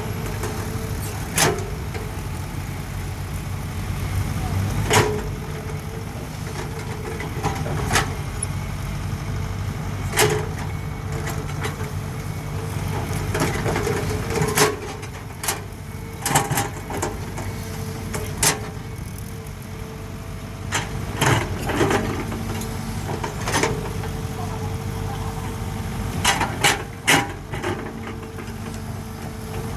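Excavator working: its engine runs steadily with a thin steady hum above it, and sharp clanks and knocks come about fifteen times at uneven intervals.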